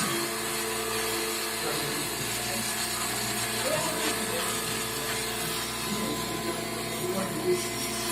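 CNC machine tool running a program, its spindle motor giving a steady whine with several held tones over a hiss.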